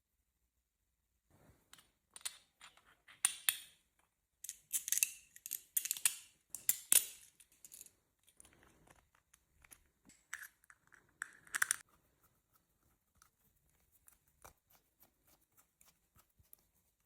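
Small parts of a model turbofan kit being handled during assembly: scattered sharp clicks and short scratchy, rustling bursts. They are busiest in the first half, with another cluster about two thirds of the way through, then only faint ticks.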